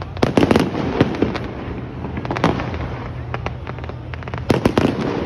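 Fireworks going off in quick clusters of sharp bangs: a burst of several just after the start, single bangs about one and two and a half seconds in, and another dense cluster near the end, over a steady low rumble.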